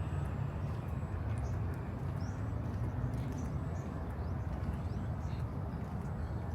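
Outdoor park ambience: a steady low rumble underneath, with short high bird chirps and quick rising and falling calls scattered through it.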